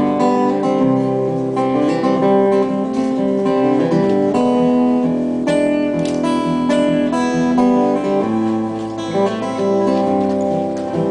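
Acoustic guitar strummed and picked, an instrumental passage between sung verses of a folk song, with the chords changing every second or so.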